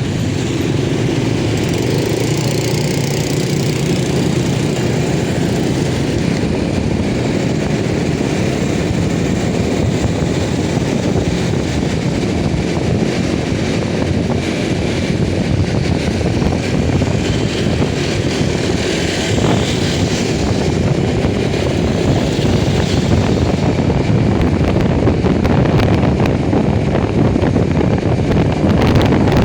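Motorcycle engine running steadily on the move, a constant drone with no change in pace.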